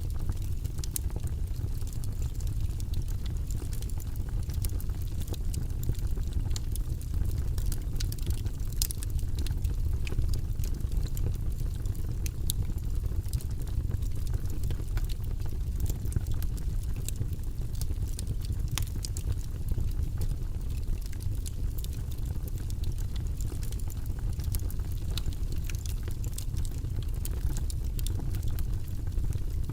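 Wood logs burning in a fireplace: a steady low rumble of flame with frequent, irregular sharp crackles and pops.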